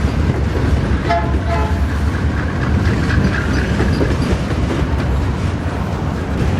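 Freight train of pulp wagons rolling past with a steady low rumble and wheel clatter. About a second in comes one short horn toot.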